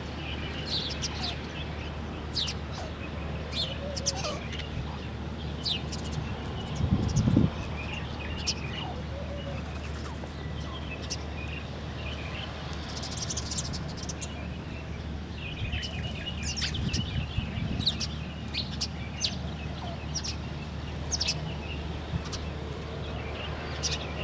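Morning birdsong: several small birds chirping with short, sharp notes scattered throughout, over a steady low hum. A brief low rumble about seven seconds in is the loudest moment.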